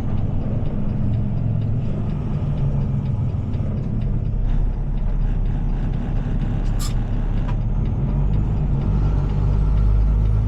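Heavy tow truck's diesel engine running under way, heard from inside the cab as a steady low drone that deepens and strengthens about four seconds in. A single sharp click sounds about seven seconds in.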